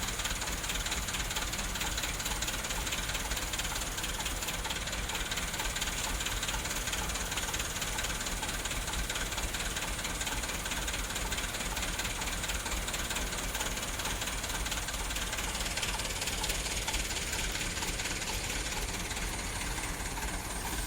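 Dump truck's diesel engine running steadily under a broad, even hiss.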